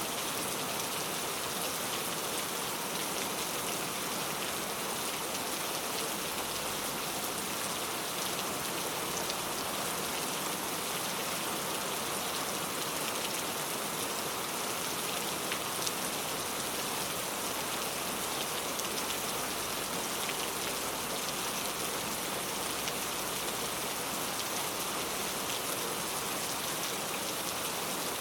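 Steady rain falling, an even hiss with faint drops ticking here and there.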